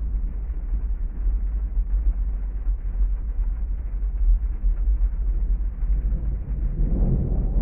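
Heavy rain with a steady deep rumble, and a roll of thunder beginning to swell near the end.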